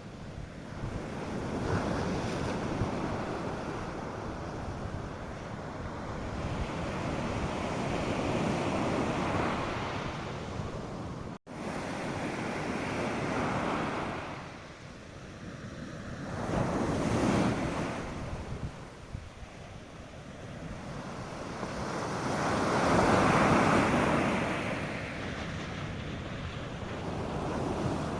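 North Sea surf breaking on the beach, its rush swelling and fading as each wave comes in, with wind on the microphone. About eleven seconds in, the sound drops out for a split second.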